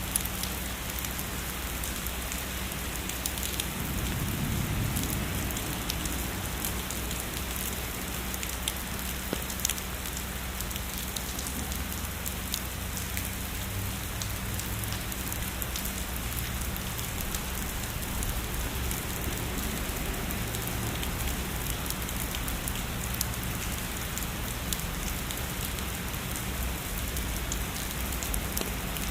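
Steady heavy rainfall, with the patter of individual drops striking a surface. A soft low rumble swells briefly about four seconds in.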